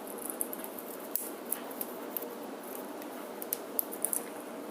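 Pet bird's beak cracking and peeling the husk off its food: irregular sharp little clicks, several a second.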